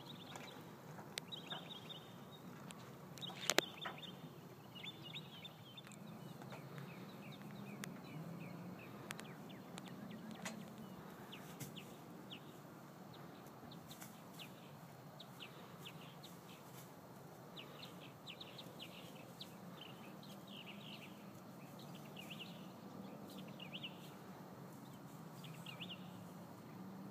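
Birds calling faintly and repeatedly, short high calls coming every second or so, with a few sharp knocks, the loudest about three and a half seconds in.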